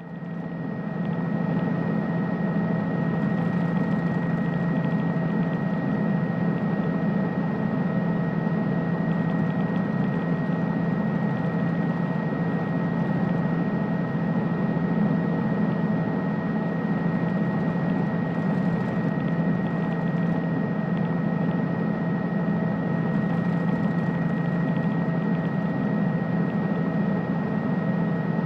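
Helicopter running steadily: a constant drone with a low hum and a thin high whine over it, starting abruptly.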